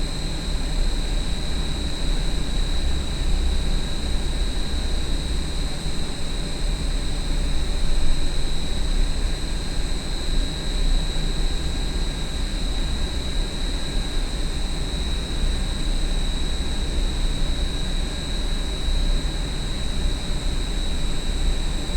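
Large industrial exhaust fan running steadily: a deep rumble with a steady high whine over it.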